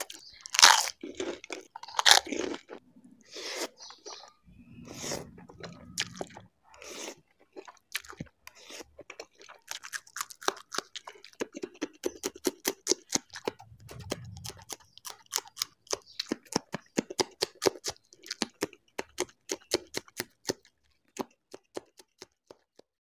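Loud crisp crunches as curd-topped golgappa (pani puri) shells are bitten, followed by fast, crunchy chewing of raw green chillies, with many sharp crackles in quick succession.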